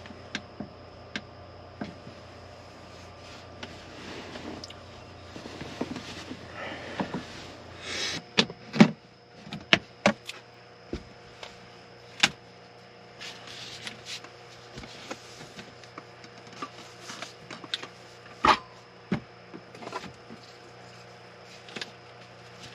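Someone moving about and handling gear in a small enclosed space: scattered clicks and knocks with short rustles, the sharpest knocks about nine seconds in and again near eighteen seconds, over a faint steady hum.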